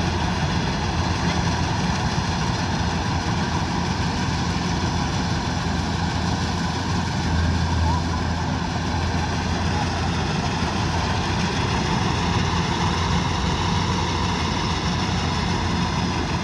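Kubota DC-105X combine harvester's diesel engine running at a steady pitch, with no change in speed or load.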